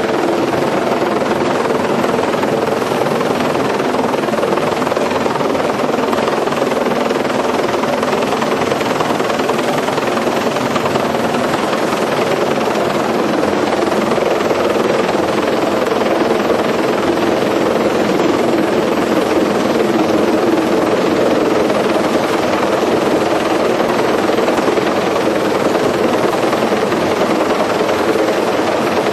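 Helicopter's engine and rotors heard from on board in flight: a loud, steady drone that does not change.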